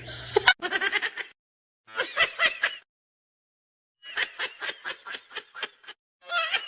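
A person giggling in several short bursts of rapid laughter, about five pulses a second, with dead-silent gaps between the bursts.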